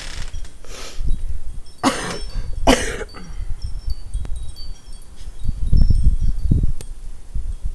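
Wind chimes tinkling in a blizzard, with gusting wind buffeting the microphone. Two short loud whooshes come about two and three seconds in.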